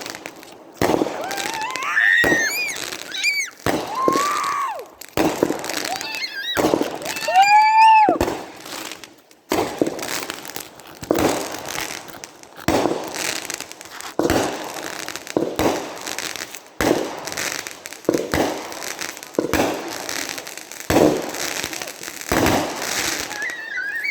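Consumer firework cake firing a long series of shots, a bang about every second.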